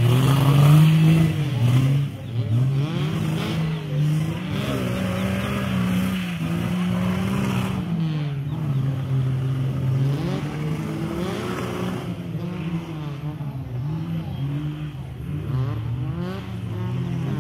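Off-road 4x4 competition vehicle's engine revving hard, its pitch rising and falling again and again as the driver works the throttle.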